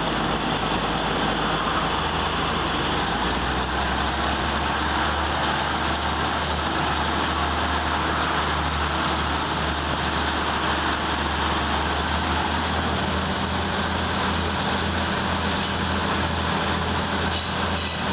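Steady rushing rumble of train wheels on rails and wind, heard from aboard a moving State Railway of Thailand train as another passenger train passes close by on the next track.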